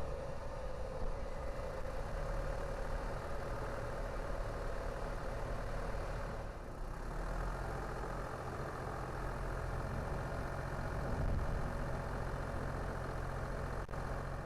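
A car driving along a road: steady tyre and road noise with a low engine hum that grows steadier from about halfway.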